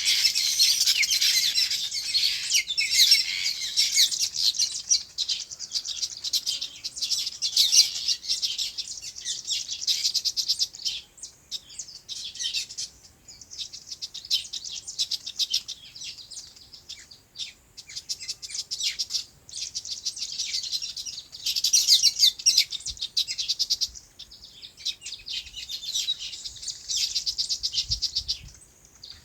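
A flock of small birds chirping rapidly and continuously, in waves that swell and fade, with brief lulls.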